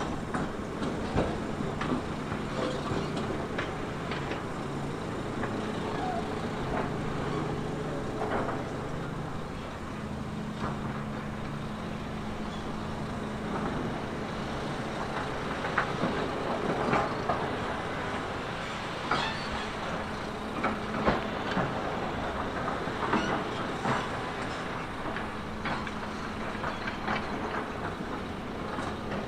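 Heavy construction machinery working: a diesel engine running steadily under irregular metallic clanks and knocks, some louder ones clustered past the middle.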